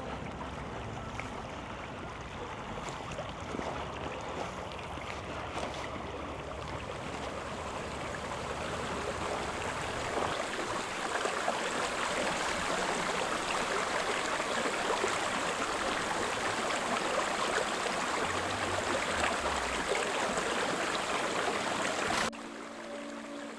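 Creek water running, a steady rush that grows louder about ten seconds in and then cuts off suddenly near the end.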